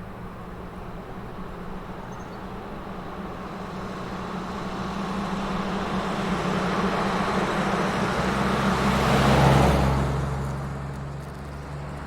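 SUV driving past: engine and tyre noise build slowly, peak about nine and a half seconds in, then fade as it moves away, the engine note dropping in pitch as it passes.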